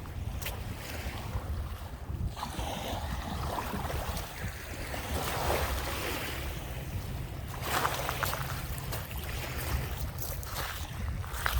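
Small lake waves washing onto the shore, rising and falling, with wind buffeting the microphone throughout.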